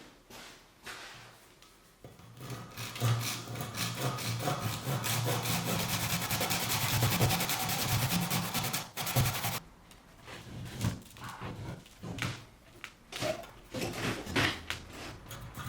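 Abrasive rubbing on a workpiece: a long spell of fast, even rubbing strokes with a low hum beneath it, then shorter separate strokes in the second half.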